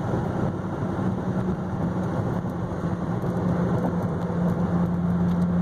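Dodge Viper SRT10's 8.4-litre V10 running at a steady cruise, a steady engine drone with tyre and road noise underneath.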